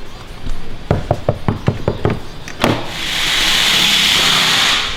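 A quick run of about eight knocks, followed by a loud, steady hiss lasting nearly two seconds that cuts off suddenly.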